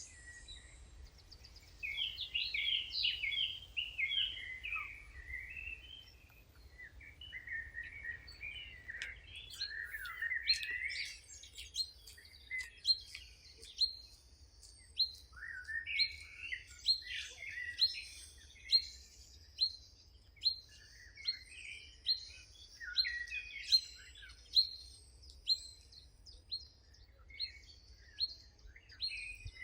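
Several songbirds chirping and singing, with overlapping warbled phrases in the first half and a string of sharp, evenly repeated chip notes, about one and a half a second, through the second half, over a faint low rumble.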